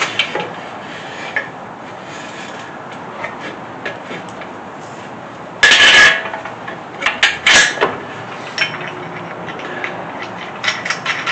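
Metal clanks, knocks and a short loud scrape from a shop engine hoist being worked by hand as its boom is extended, with a few sharp metallic clicks.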